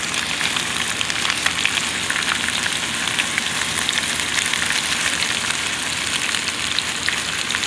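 Freshly added vegetables sizzling in hot oil and water in a skillet: a steady sizzle full of small crackling pops.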